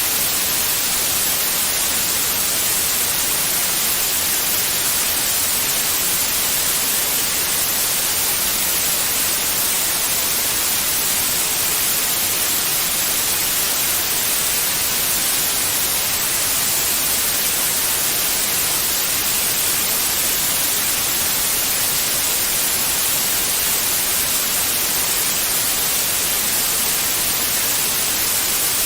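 Steady white noise: an even, unchanging hiss, brightest in the treble, played continuously as a baby-soothing sound.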